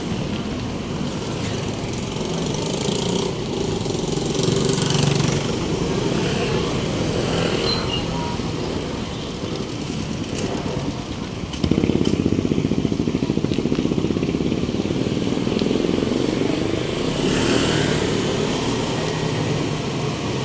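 Street traffic with motorcycle engines running. About halfway through, a louder engine with a fast, rapid pulse comes in abruptly close by and keeps going.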